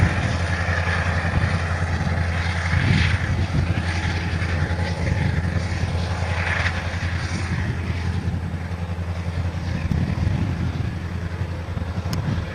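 Diesel locomotive engine running with a steady low drone, with a hiss of noise above it that swells a few times.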